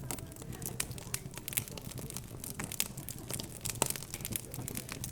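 Wood fire crackling, with many irregular sharp pops and snaps over a low steady murmur.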